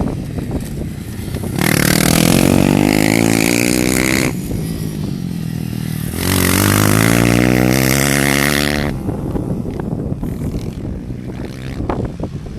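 Single-cylinder four-stroke dirt bike engine revving hard twice, each spell lasting a few seconds with the pitch sweeping, and running lower between them.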